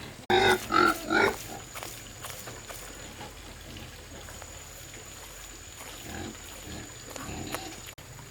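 Farm animal calling: three loud, short calls in quick succession near the start, then a few fainter calls near the end.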